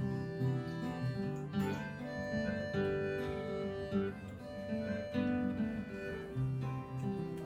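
Live country band playing an instrumental break with no singing: strummed guitar and bass chords under a lead melody line.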